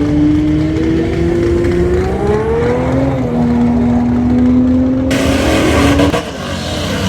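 Drag car's engine under full throttle accelerating down the strip. Its pitch climbs, drops at a gear change about three seconds in, climbs again, and the tone cuts off about six seconds in.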